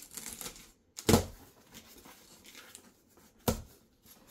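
A cardboard box being opened by hand: scattered rustling and handling noise with two sharp thumps, about a second in and again near the end.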